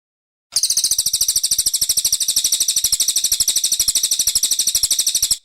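Brown cililin songbird singing one long, very fast, high-pitched trill of about sixteen even notes a second. It starts abruptly half a second in and cuts off abruptly just before the end.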